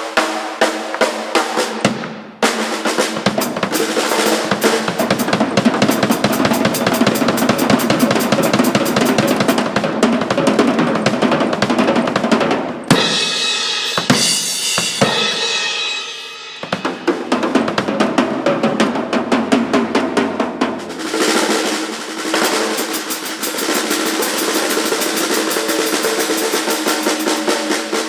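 Rock band playing at rehearsal, the drum kit loud and busy with kick, snare and rolls over sustained bass and guitar. About halfway through, the low end drops out for a few seconds, then the full band comes back in.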